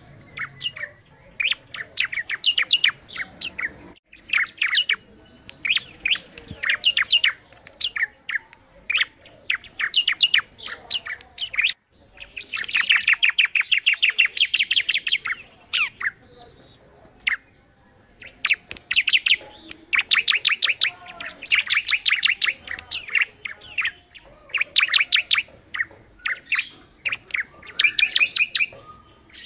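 Ciblek (prinia) singing loudly and persistently: rapid runs of sharp, high chirps in phrases broken by short pauses, with one long unbroken run partway through.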